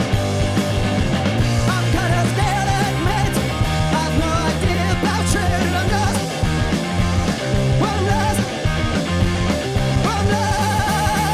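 A live band playing loud, dense rock music with a heavy bass line and wavering pitched lines above it.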